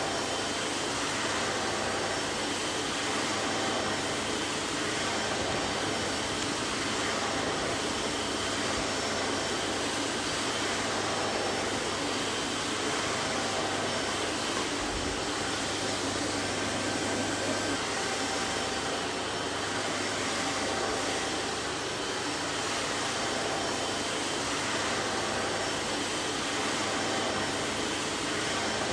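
Vacuum cleaner running steadily: an even rush of air with a constant low hum and a faint high whine, with a brief low bump about halfway through.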